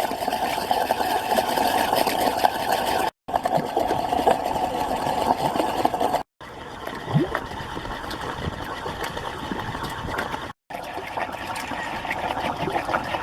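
Geothermal mud pots bubbling and popping rapidly as carbon dioxide gas rises through the mud and water. The bubbling breaks off for an instant three times, in separate short takes.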